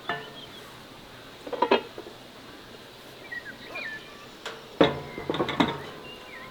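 Dishes or metal utensils clinking and knocking: a few separate strikes with brief ringing, then a quicker cluster about five seconds in. Faint short high chirps come in between the strikes.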